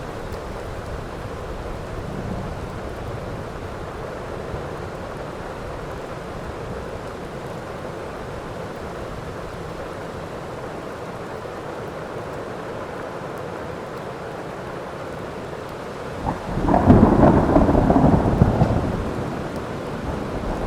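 Steady heavy rain falling, with a low thunder rumble near the start. About three-quarters of the way through, a loud thunderclap breaks in suddenly and rumbles for about three seconds before easing back under the rain.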